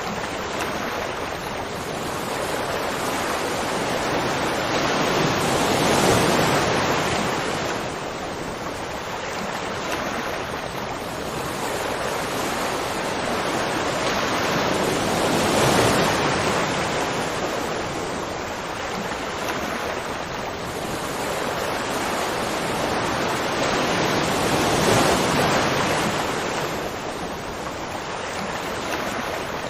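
Waterfall: a dense, continuous rush of falling water that swells and eases slowly, peaking about every nine or ten seconds.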